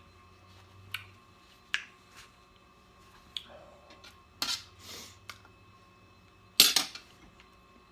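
Close-miked eating sounds from a person eating fried chicken and rice: scattered sharp mouth smacks and clicks, the loudest about four and a half and six and a half seconds in.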